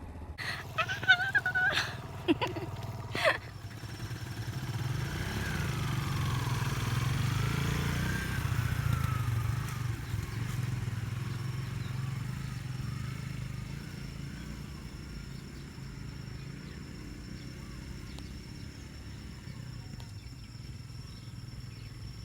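A few short, sharp sounds in the first few seconds. Then a motorcycle engine is heard, growing louder to a peak a third of the way in and slowly fading as it goes away. A steady high insect drone runs underneath.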